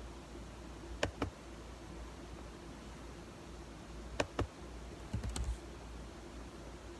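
Cornstarch being chewed with the mouth closed: a few sharp crunching clicks, two about a second in, two more a little after four seconds, and a quick run of them about five seconds in, over a faint low steady hum.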